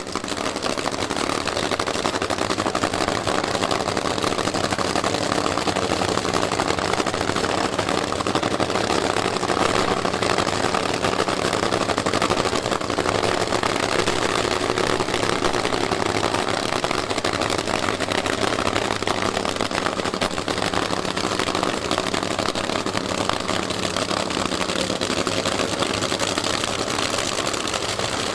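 Jet engine of a drag-racing jet car running steadily at a constant pitch, with no rise or fall in level.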